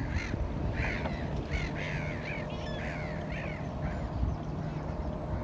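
Seagulls calling: a quick run of short, arched, cawing cries that stops a little past halfway, over a steady low rumble.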